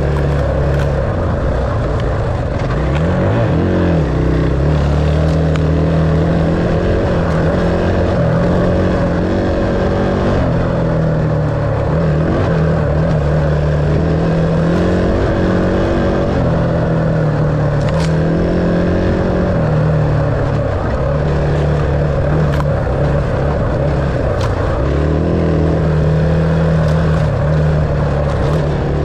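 Dirt bike engine running under changing throttle, its pitch rising and falling as it is ridden, with a brief rev-up about three seconds in.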